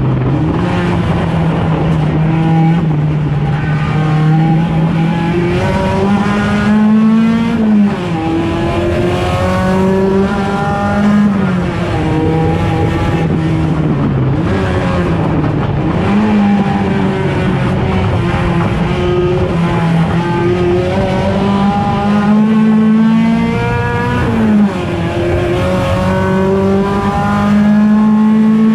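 Engine of a Turismo Pista 1.6 touring race car running hard at racing speed. Its pitch climbs for several seconds and then drops sharply, over and over, as it works through gear changes and lifts off for corners.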